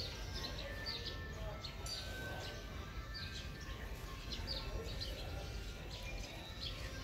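Small birds chirping, short high calls repeating every second or so, over a steady low outdoor rumble.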